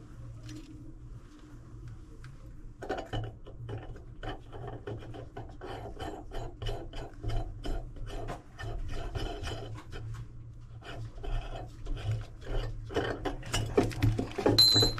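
Quick, irregular scraping and rubbing of faucet parts being worked into place as the sink faucet is reassembled, starting about three seconds in and getting busier toward the end, with a brief high squeak near the end.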